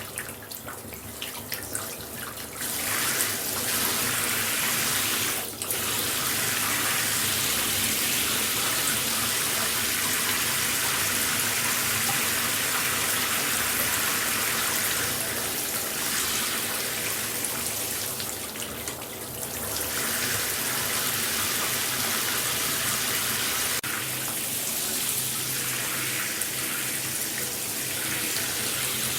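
Shower water spraying steadily, a little softer for the first couple of seconds and again about two-thirds of the way through.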